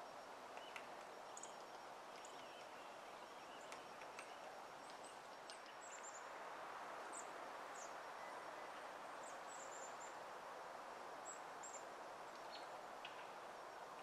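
Faint, high-pitched bird chirps, some in quick little runs, scattered over a steady outdoor hiss. A few single taps are heard, fitting a hairy woodpecker pecking at the trunk.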